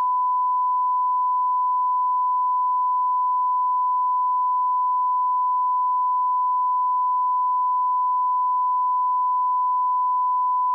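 Steady 1 kHz sine-wave line-up tone at −18 dBFS, a single unbroken pitch at constant level.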